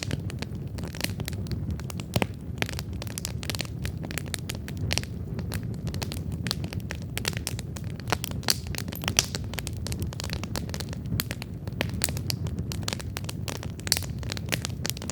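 Wood campfire burning: a steady low rumble of flames under frequent, irregular crackles and pops of burning wood, a few sharper pops standing out.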